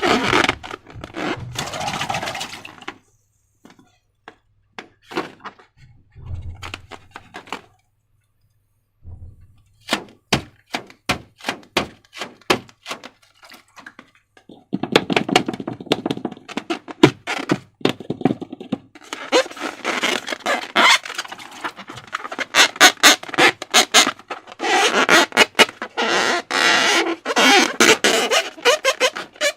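Slime being squeezed and stretched by hand, making runs of wet, crackling clicks and squelches. The clicks come in scattered bursts with short pauses and a couple of soft low thuds at first, then turn dense and continuous from about halfway on.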